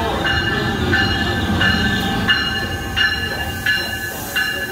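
NJ Transit ALP-46A electric locomotive rolling past at low speed with a steady rumble, its bell ringing about once every 0.7 seconds as it pulls into the station.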